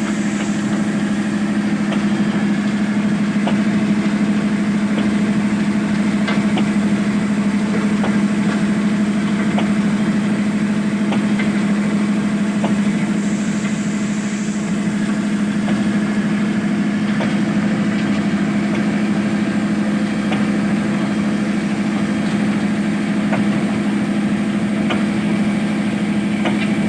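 A heavy machine's engine running steadily at one constant speed as a strong low hum, with faint scattered clicks and knocks.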